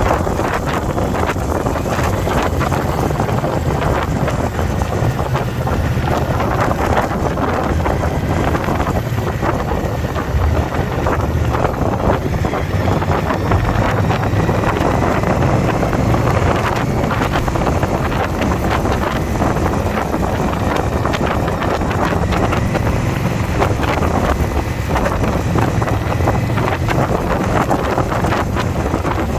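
Wind buffeting the camera microphone on a moving motorcycle, a steady loud rush with the engine running underneath.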